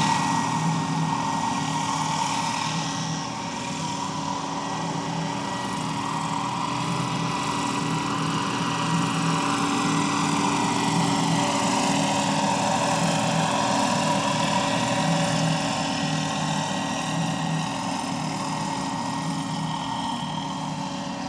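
Electric 700-size RC scale MD 500E helicopter with five rotor blades running steadily: a constant high whine with a low, even rotor beat, mixed with the scale turbine sound from its onboard sound module.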